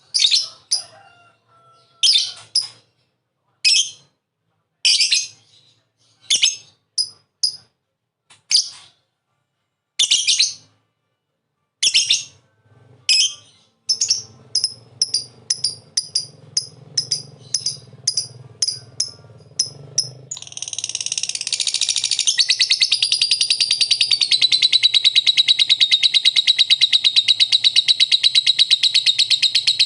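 Lovebird calling. Sharp high chirps come about a second apart, then quicken, and about twenty seconds in they break into a long, unbroken rapid trill: the 'ngekek' chatter prized in lovebirds.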